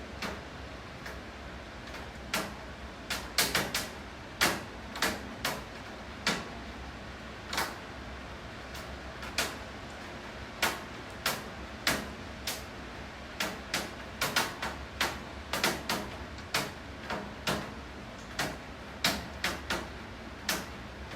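Rain: irregular sharp taps of single drops, about two a second and some much louder than others, over a steady hiss of falling rain.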